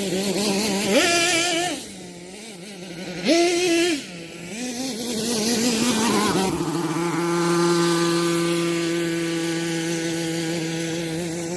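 Small nitro engine of a Kyosho Mad Force RC monster truck revving up sharply twice, then settling into a steady, high-pitched run for the second half. The idle is set high enough that the engine keeps running fast.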